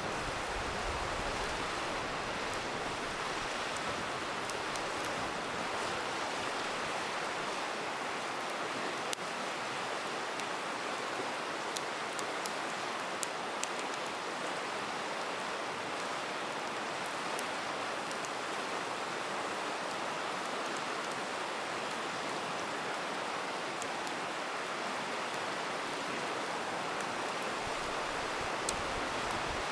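River water rushing steadily, with occasional sharp pops and crackles from a wood campfire, a cluster of them in the middle and one near the end.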